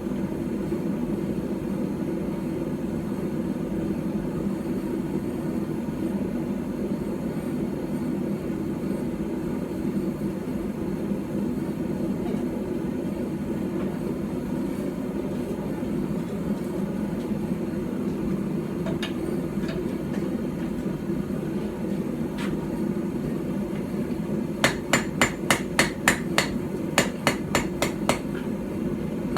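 Steady low rumble for most of the stretch. Near the end comes a run of quick blows, about three a second with short breaks: a light hand-forged hammer striking a knife blade on a small iron stump anvil.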